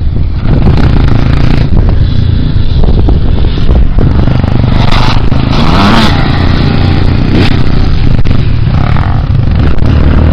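Motocross motorcycle engine running loud, with a brief rise in revs about six seconds in.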